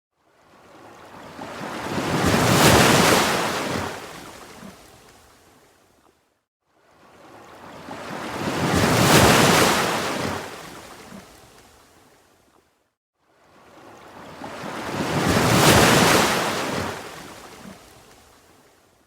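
Ocean waves washing in, three times: each one swells to a loud hiss and then fades away, about every six and a half seconds, with a brief near-silent gap between waves.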